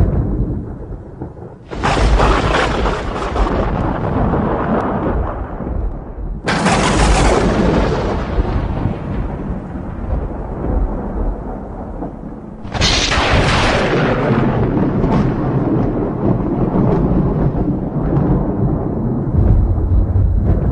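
Thunderstorm: three sharp thunderclaps, about 2, 6.5 and 13 seconds in, each rolling off into a long low rumble that never quite dies away between them.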